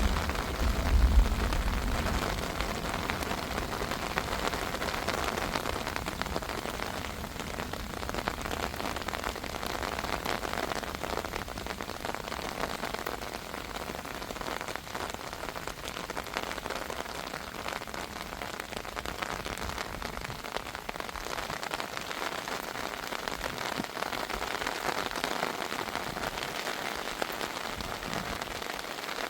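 Heavy rain falling steadily on a surface, an even hiss with no let-up. A deep rumble of thunder fades out in the first two seconds.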